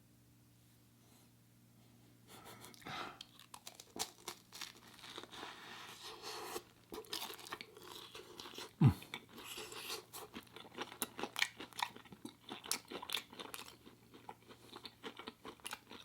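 Close-miked chewing of a bite of air-fried vegan corn dog: crunching and wet mouth clicks that start about two seconds in and go on irregularly. About nine seconds in there is one loud low thump.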